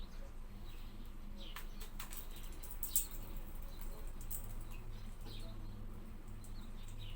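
Short, high bird chirps, one every second or so, with a few sharp clicks near the middle, the loudest about three seconds in, over a low steady hum.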